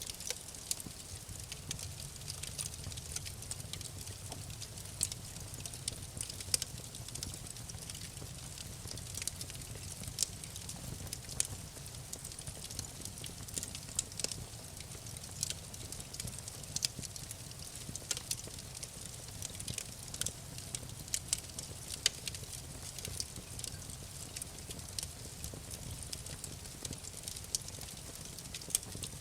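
Wood fire crackling in a fireplace: irregular sharp snaps and pops over a soft, steady low rumble of the burning fire.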